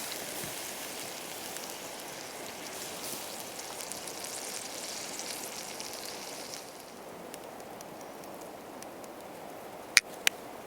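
Food sizzling in a pan over a campfire; the sizzle drops off about two-thirds of the way through, leaving faint crackles, and two sharp clicks come close together near the end.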